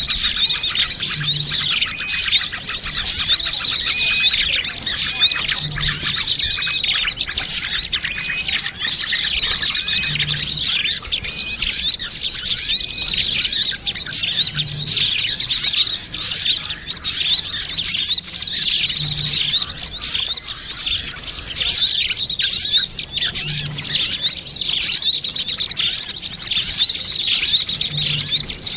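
Dense chorus of many small birds chirping and twittering at once, a layered bird-lure (pikat) recording. A faint low blip repeats about every four and a half seconds underneath.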